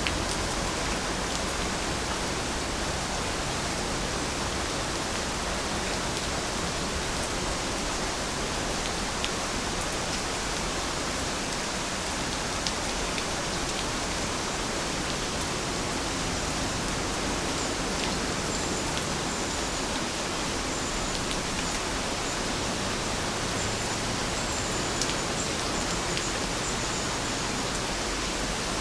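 Heavy rain falling steadily, an even hiss with scattered sharper drop ticks. A few faint high chirps come in over it in the second half.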